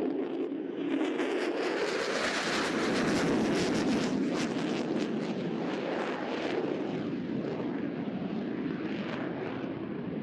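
F-35C Lightning II fighter jet with its single Pratt & Whitney F135 engine flying past in a tight turn: a loud jet rumble and rush with a harsh crackle, swelling about a second in, loudest a couple of seconds later, then slowly fading.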